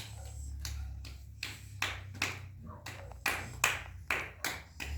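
Repeated sharp wooden knocks and cracks at an uneven pace of about two a second, as sticks of firewood are handled and set on a bonfire pile.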